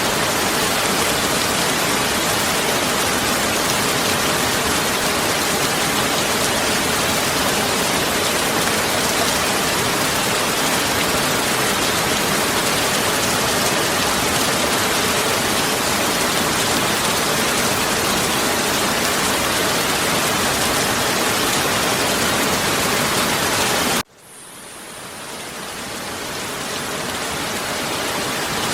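Heavy rain falling as a dense, steady hiss. About 24 seconds in it cuts out suddenly and then fades back in over the last few seconds, an edit or loop point in the recording.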